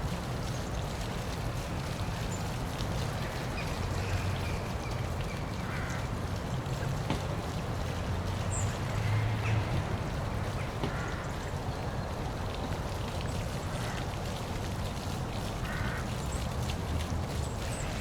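Steady rushing of a park waterfall, with a duck quacking briefly several times over it.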